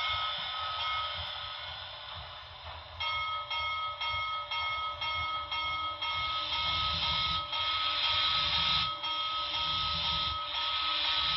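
Model steam locomotive sound decoder playing a steam whistle through its small speaker. The whistle comes in about three seconds in, choppy at first and then held.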